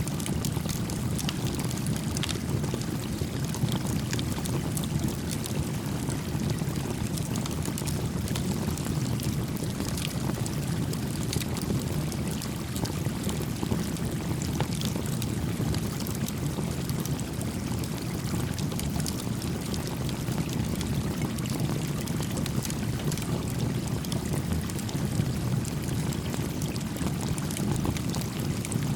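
A brook flowing steadily beside a small campfire, with light, scattered crackles from the fire over the rush of water.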